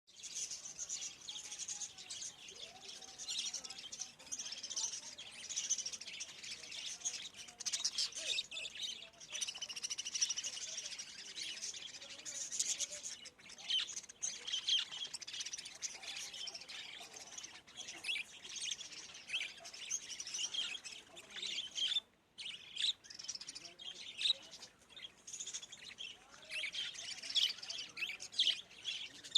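Many small cage birds chirping and tweeting together in a dense, continuous high-pitched chatter.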